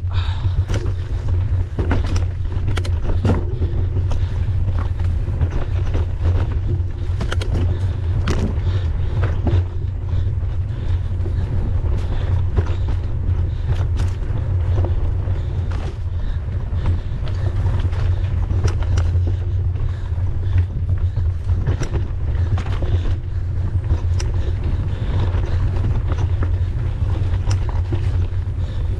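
Mountain bike riding over rough trail: steady low wind rumble on the microphone, with frequent rattles and knocks from the bike and tyres over the ground.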